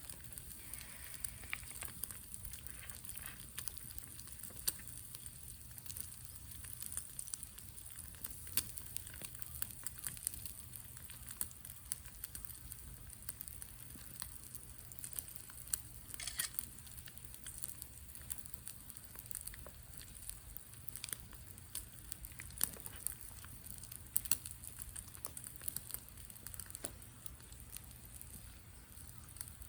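Wood fire burning in a fire stand, crackling steadily with irregular sharp pops.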